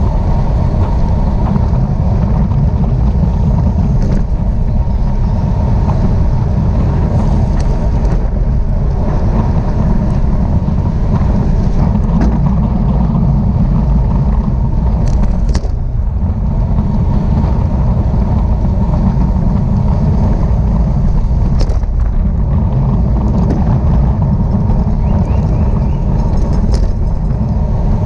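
Wind rushing over the microphone of a camera riding with a road bike race, a loud steady rumble, with a few faint clicks scattered through it.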